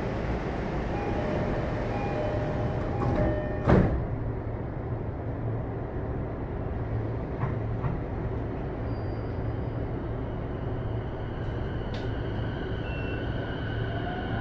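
Inside an E233-1000 series commuter train car: a short repeated door chime, then the sliding doors shut with a sharp thud about four seconds in. The train then moves off over a steady cabin rumble, with the faint whine of its Mitsubishi IGBT-VVVF inverter coming in.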